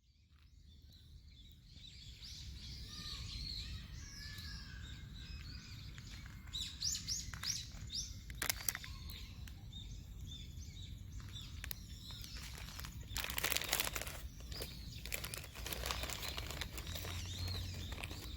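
Small birds chirping and calling in quick curved notes, fading in at the start, over a low steady rumble. A few sharp clicks come about 8 seconds in and a cluster near 14 seconds.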